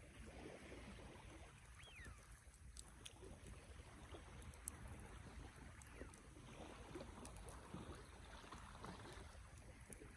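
Wood fire burning with a low, steady rush from the flames and sparse small crackles. One sharper pop comes a little before halfway.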